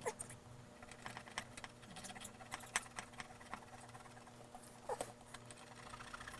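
Hacksaw blade cutting into the rubber rebound stop on an MGB door hinge: faint, irregular scratchy strokes.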